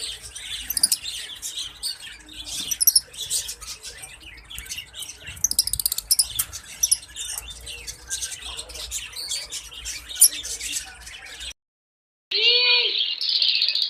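Lovebirds chirping: a rapid run of short, high chirps. Near the end the sound cuts out for under a second, then returns louder as a denser, steadier high chatter.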